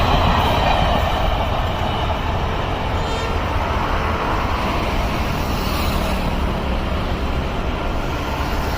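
Train running at speed: a steady, heavy rumble that eases a little in the first couple of seconds and then holds.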